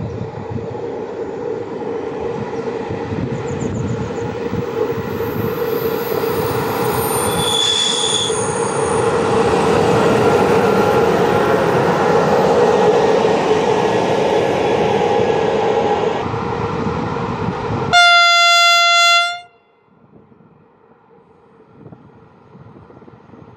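Passenger train hauled by a 060-EA (LE 5100 kW) electric locomotive running through the station, its loud running noise building steadily, with a brief high tone about eight seconds in. Near the end the locomotive sounds one loud horn blast of just over a second, and then the noise cuts off suddenly.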